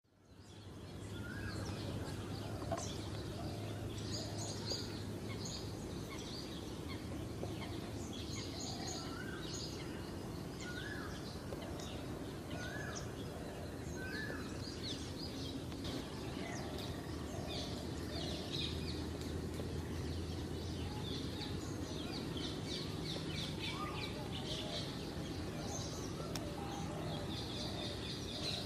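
Several birds singing and calling over a steady low background hum, fading in at the start; one bird repeats a short rising call about every two seconds.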